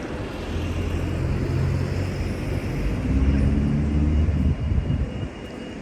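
Engine of a passing road vehicle, a low drone that builds to its loudest about three seconds in and fades near the end, over steady street noise.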